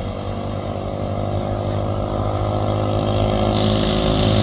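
Small single-cylinder mini bike engines running, growing steadily louder.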